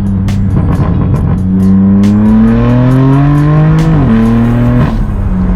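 BMW M4 F82's twin-turbo inline-six through a straight-piped AWE non-resonated track exhaust, accelerating hard: the engine note climbs steadily, drops sharply at an upshift about four seconds in, holds briefly, then falls away as the throttle is lifted near the end.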